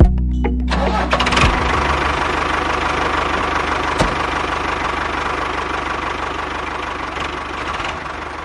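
A motor running steadily after a sharp knock at the start, its level slowly fading, with a single short tick about four seconds in.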